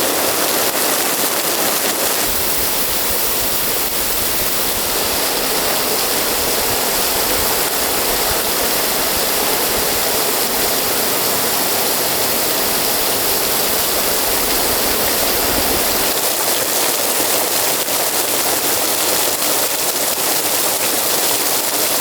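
Heavy rain falling in a sudden summer downpour: a loud, steady hiss of rainfall. A low rumble underneath comes in about two seconds in and drops away about three-quarters of the way through.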